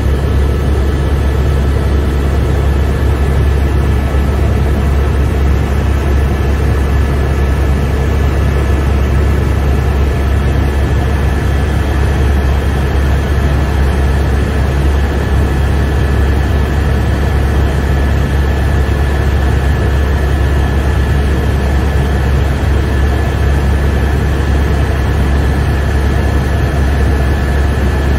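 Helicopter in flight, heard from inside the cabin: a loud, steady deep drone of the rotor and engine with a constant high whine above it.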